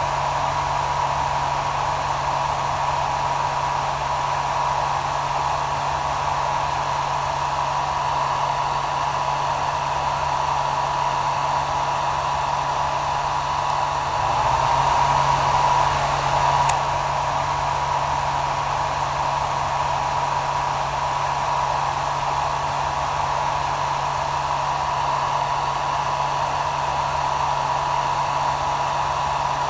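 Hair dryer running steadily: a continuous rush of air over a low motor hum and a steady whining tone. About halfway through it swells briefly louder, its pitch shifting slightly, then settles back with a faint click.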